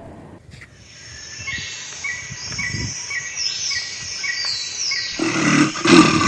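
A bird gives a run of short, repeated high chirps, about two or three a second. About five seconds in, a peacock breaks in with loud, nasal calls.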